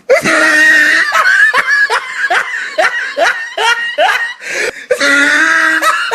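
Laughter in quick separate bursts, about three a second, with a steady held tone in the first second and again near the end.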